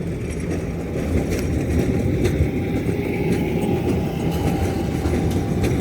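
A tram passing close by: a dense rumble that swells over the first second and then holds steady, with a steady high whine above it and scattered light clicks.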